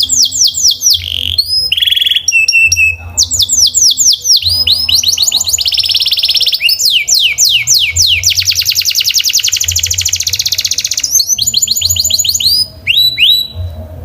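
Domestic canary singing a fast, loud song made of rolls: runs of rapid, high, downward-sweeping whistled notes and long fast trills, with brief breaks between phrases. The song stops just before the end.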